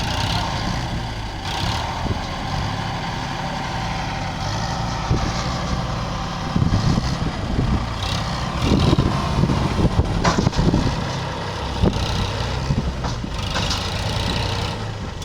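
Tractor diesel engine running steadily, with louder rumbling and a few sharp knocks in the middle.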